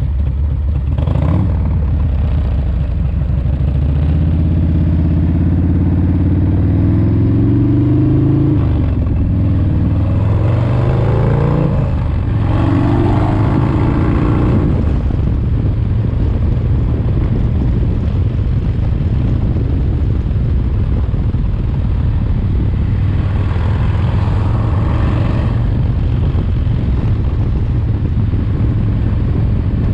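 Freshly rebuilt S&S 107 cubic-inch V-twin in a 1985 Harley-Davidson FXRT, on its break-in miles, accelerating: its pitch climbs, drops at a gear change about nine seconds in, and climbs again. From about fifteen seconds in it holds a steady pitch at cruising speed.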